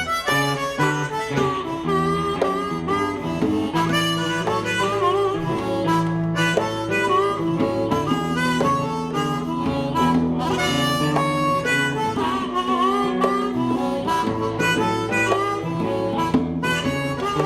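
Live blues band in an instrumental break: a harmonica solo with bent notes over electric guitar and a steady shuffle beat.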